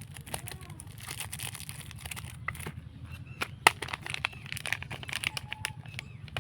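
Soap packaging handled and unwrapped: irregular crinkling and sharp clicks of wrapper and box, the loudest snap a little past halfway, over a steady low hum.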